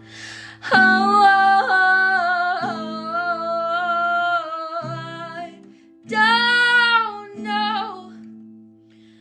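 A woman singing long held, wordless notes with a wavering pitch over guitar accompaniment. The singing ends about 8 s in, leaving the guitar ringing out as the song closes.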